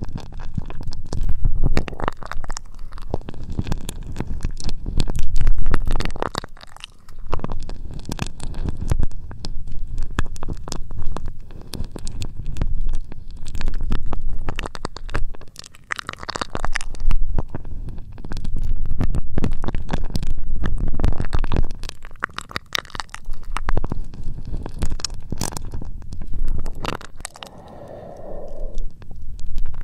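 Close-miked ASMR scratching and rubbing right on the microphone: dense crackling and clicking with a deep rumble underneath, swelling and fading every second or two.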